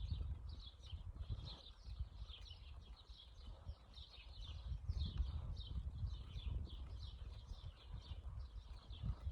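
Wind rumbling on the microphone of a moving bicycle, gusting up and down, with birds chirping continuously in the background.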